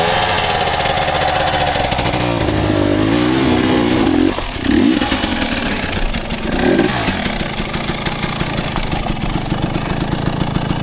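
Dirt bike engine being ridden on a rough trail, its revs wavering up and down as the throttle is worked, with two sharp blips of revs partway through before it settles to a steadier pull.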